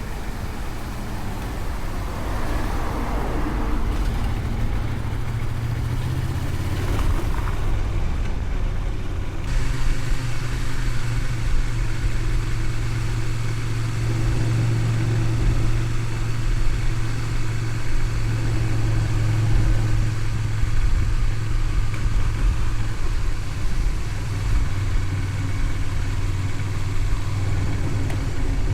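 Honda VTR250's V-twin engine running while riding, with wind and road noise. The engine note grows steadier and a little louder about ten seconds in.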